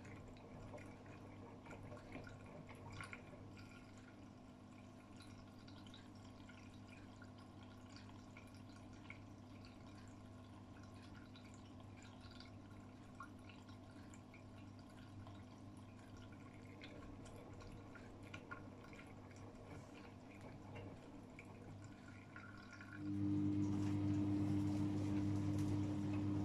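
Water trickling and dripping inside an AEG Öko-Lavamat front-loading washing machine early in its wash cycle, with faint ticks and a low steady hum. About 23 seconds in, one of the machine's pumps switches on abruptly with a loud, steady hum.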